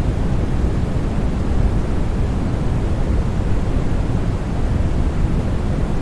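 Steady, unbroken sleep noise for soothing a baby, deep and dark in tone: strongest in the low end and fading off in the highs, with no tones or changes.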